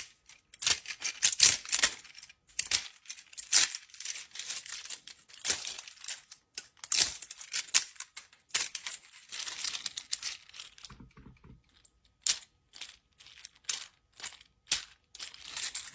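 Hard 3D-printed plastic being handled, with irregular clicks, scrapes and crackles as the parts are worked and flexed.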